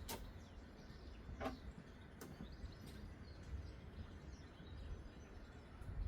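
Quiet outdoor background: a steady low rumble with faint bird chirps and a few light knocks.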